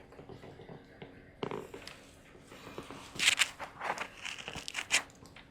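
Irregular scraping and crackling handling noises, louder in the second half, as a meter probe is worked against adhesive inside an LED shop light.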